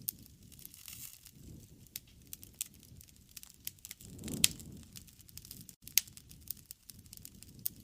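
Wood campfire crackling, with irregular sharp pops over a low rush of burning flames; the flames swell briefly about four seconds in, topped by a loud crack.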